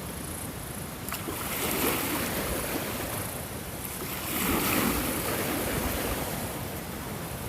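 Ocean waves washing in, with two swells a few seconds apart.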